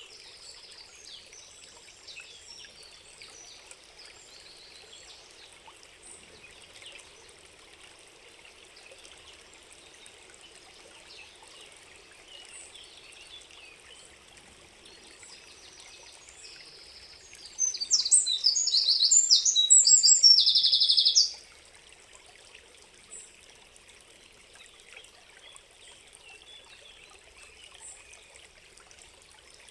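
Forest ambience: a steady trickle of running water with scattered small bird calls. About two-thirds of the way through, a songbird close by sings a loud, rapid, high song for about four seconds, then stops suddenly.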